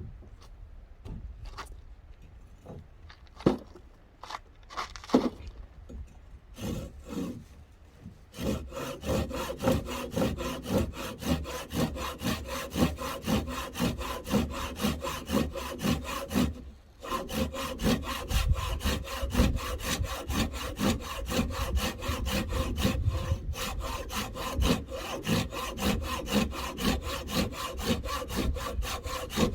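Hand saw cutting through wood in quick, even back-and-forth strokes, after a few scattered knocks of wood being handled; the sawing stops briefly about two-thirds of the way through, then resumes.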